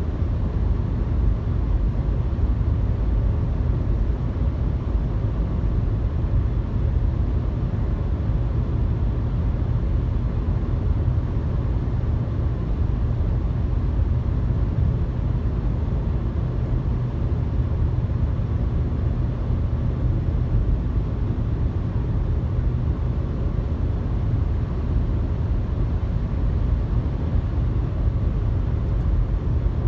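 Steady road noise inside a moving car at highway speed: a constant low tyre and engine rumble with hiss.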